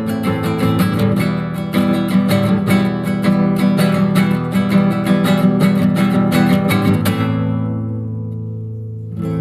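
Acoustic guitar strummed in a steady rhythm. About seven seconds in the strumming stops and the last chord rings out and fades, then the strumming starts again near the end.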